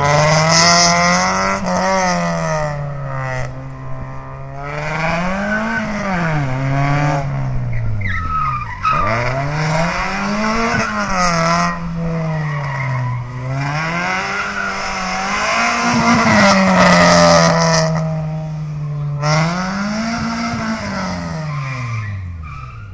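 Fiat Seicento's 1.4 16V four-cylinder engine driven hard, its revs rising and falling over and over every few seconds, with tyres squealing through the turns. The revs drop right down twice, about nine seconds in and near the end.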